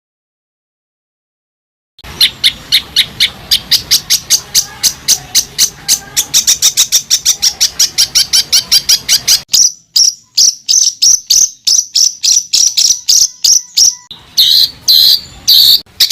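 Recorded songbird masteran: a rapid string of sharp, loud, evenly repeated notes, about five a second. These are the rapid-fire 'tembakan rapat' calls played to train competition songbirds. The recording comes in about two seconds in, and near the end it changes to a few longer, lower notes.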